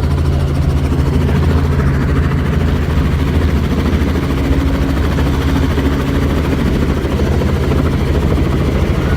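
Helicopter's rotor and turbine engine running steadily, a loud, even low drone with a fast flutter.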